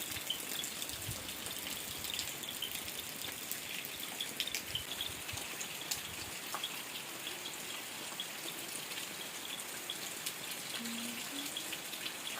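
Steady rain falling, an even hiss with scattered faint drips.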